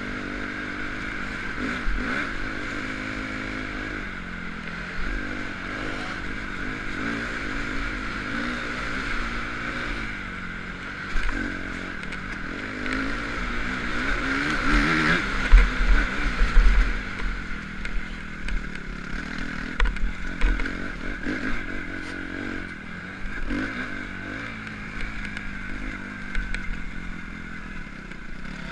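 Motocross bike engine revving up and down as it is ridden, pitch rising and falling with the throttle, with a cluster of louder knocks and clatter about halfway through.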